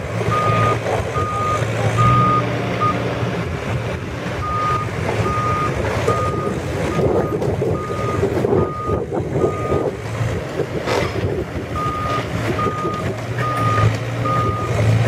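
Backup alarm on heavy demolition equipment beeping a little more than once a second, stopping twice for a second or two and starting again, over the steady hum of a diesel engine.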